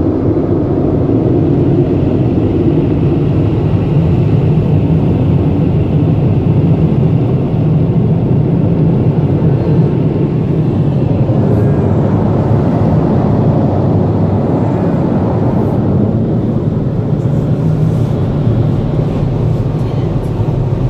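Brush-type automatic car wash running: a loud, steady rumble of the machinery, with light ticks in the last few seconds.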